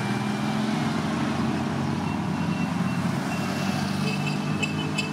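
Classic Fiat 500s' small air-cooled two-cylinder engines running as the cars drive past, steady and low. Near the end comes a quick cluster of short high beeps.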